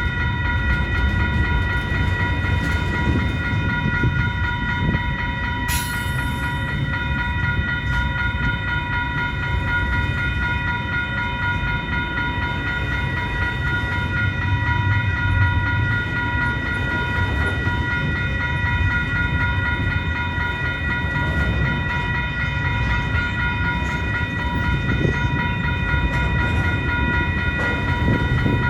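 CN mixed freight train's cars rolling past on the rails: a steady low rumble with a constant high whine over it.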